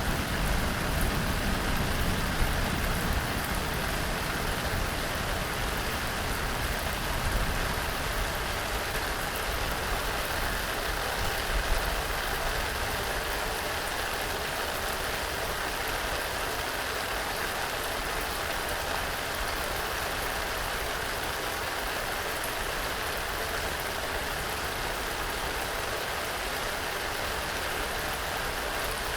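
Steady rain falling in a continuous hiss, with a low rumble under it for the first ten seconds or so that fades away.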